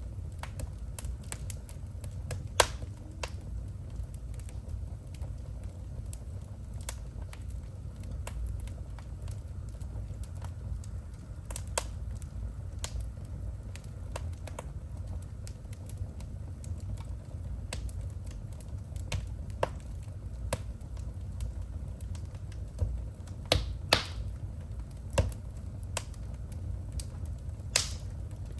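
Wood fire burning in a fireplace: a steady low rumble with irregular sharp crackles and pops, a few of them louder, clustered in the last few seconds.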